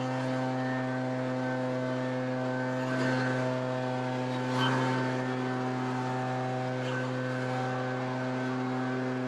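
Small engine running steadily at a constant high speed, with brief louder swells about three and about four and a half seconds in.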